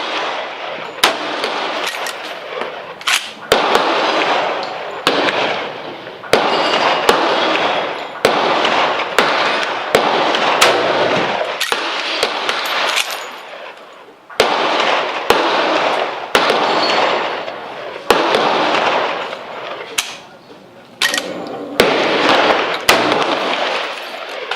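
Rifle shots at a shooting range, irregular and roughly one a second, each sharp crack followed by an echoing tail that fades over about a second.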